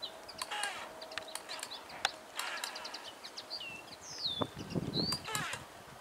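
Songbirds chirping and whistling: quick clicks, short sweeping whistles and rattling trills, one after another.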